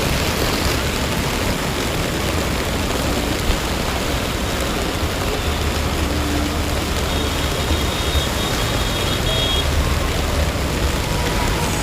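Heavy rain pouring down in a steady, dense hiss, with a low rumble swelling and fading underneath.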